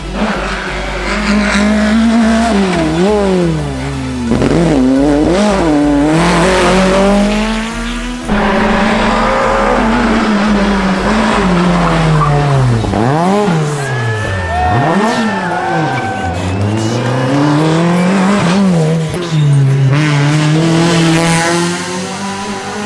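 Rally cars driven flat out on a stage, engines revving hard and dropping through gear changes and braking, with tyre squeal. Several separate passes follow one another, with abrupt cuts between them.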